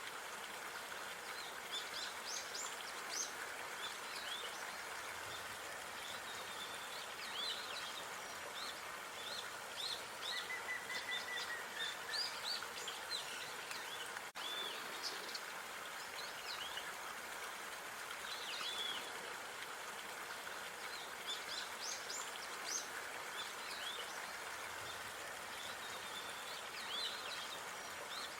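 Small birds chirping and whistling on and off over a steady background hiss of park ambience. A brief dropout about halfway through, like a loop splice.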